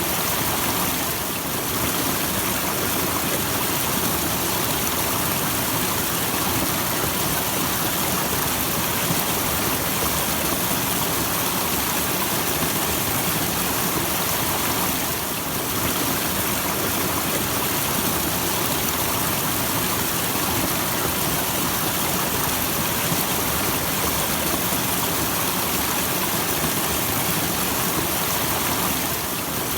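Small natural waterfall: a steady, unbroken rush of falling and splashing water, with a bright hiss.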